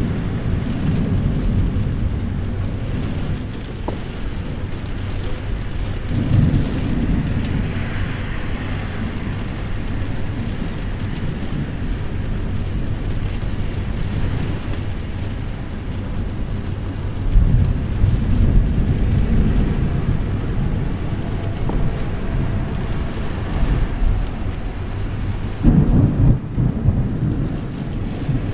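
Thunder rumbling from a severe thunderstorm over steady rain. There are louder rolls about six seconds in, around eighteen seconds in, and again near the end.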